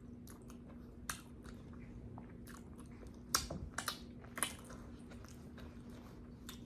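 Close-miked chewing and lip-smacking of a mouthful of potato: scattered wet mouth clicks, with a cluster of louder smacks about three to four and a half seconds in.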